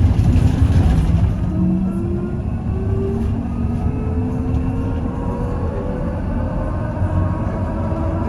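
Trolleybus under way, heard from inside: a steady low rumble of the ride with the electric traction motor's whine slowly rising in pitch as it picks up speed.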